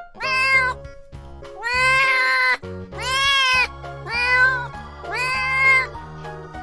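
A kitten meowing five times, about a second apart, each meow rising and then falling in pitch, over background music.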